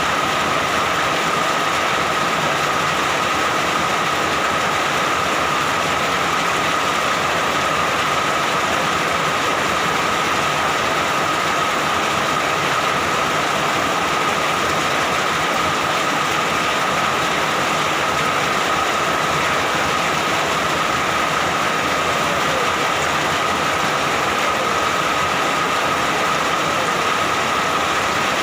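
Steady, even rain falling heavily, with a constant high thin tone running through it and no breaks or thunder claps.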